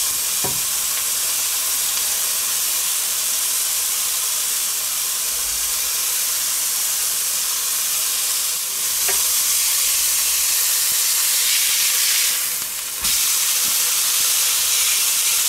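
Burger patty frying with onion rings and bacon in a hot grill pan, a steady sizzle. Tongs click against the pan a few times. Near the end the sizzle dips briefly and comes back a little louder.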